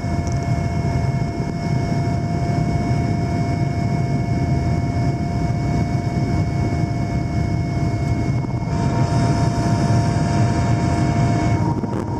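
Helicopter in flight: a steady, loud drone of engines and rotor with a few constant whining tones, with a little more hiss from about nine seconds in.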